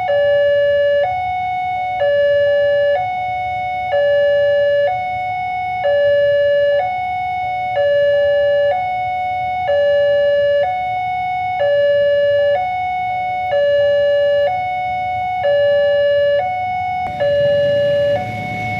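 Railway level-crossing warning alarm sounding: an electronic two-tone chime that alternates between a lower and a higher tone about once a second and repeats steadily. Near the end, a rumbling noise rises beneath it.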